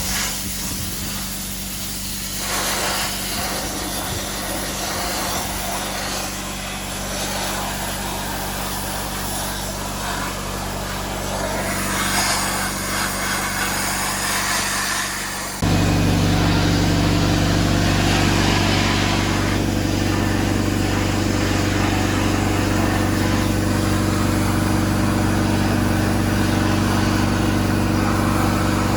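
A motor or engine running steadily with a hiss over it. About halfway through the sound jumps suddenly to a louder, deeper hum and holds there.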